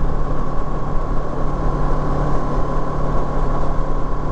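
Kawasaki Versys 650's parallel-twin engine running at a steady cruise, with a constant higher whine and an even rushing noise over it.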